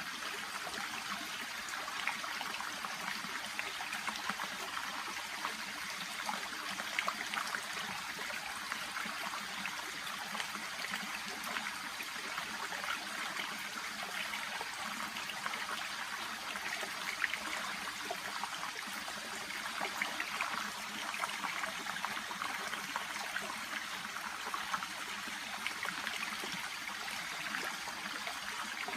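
Shallow brook babbling steadily, a continuous trickle dotted with small splashes.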